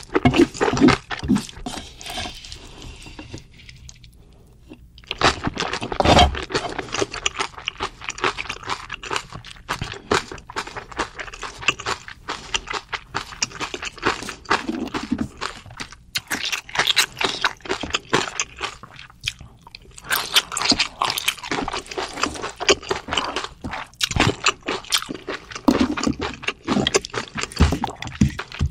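Close-miked chewing and crunching of a full mouthful of spicy bibimbap and mixed noodles with raw vegetables, as wet, irregular crackles and clicks. There is a short lull about four seconds in.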